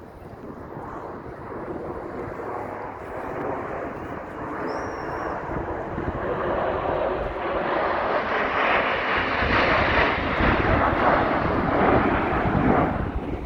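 Airplane flying past, its engine noise building steadily to a peak in the second half and falling off sharply near the end.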